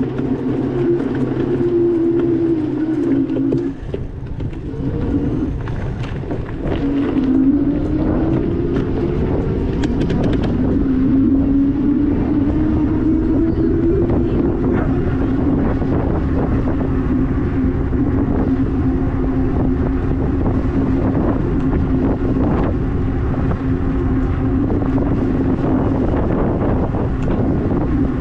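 EP-2 Pro e-bike's hub motor whining under way, its pitch dipping, climbing slowly and then holding steady as the speed changes, over wind buffeting the microphone and the rumble of the tyres. Several knocks come in the first ten seconds or so.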